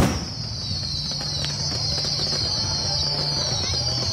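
Fireworks: a single sharp bang, then a steady high hiss from firework fountains sending columns of sparks upward, over a low steady hum.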